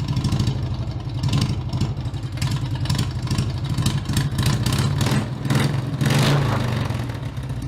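Small engine running with many sharp pops and clatter, and a brief rev about six seconds in.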